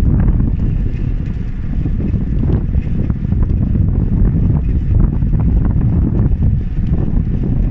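Wind buffeting the microphone during a bicycle ride: a loud, steady low rumble with scattered small clicks and rattles.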